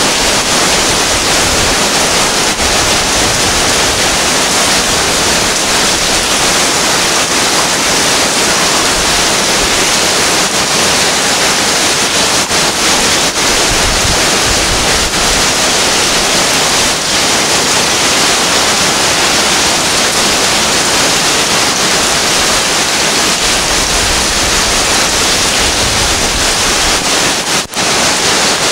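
Heavy rain pouring down onto a street and parked cars, a loud, steady hiss. It drops out for a moment near the end.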